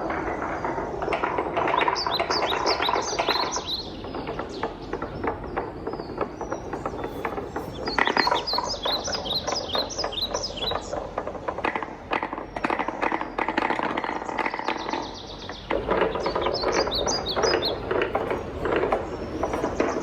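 Wooden balls rolling and clattering down a wooden marble run, a continuous rumble of rolling with dense rapid knocks, and three spells of quick, bright, high-pitched clicks as the balls strike the track.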